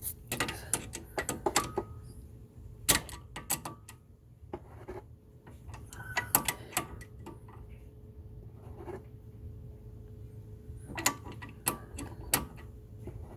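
Irregular metallic clicks and knocks from a brake caliper piston compressor tool being worked against a Honda Civic caliper piston as it is wound back. Some of the clicks ring briefly, and they come in clusters with a quieter stretch in the middle.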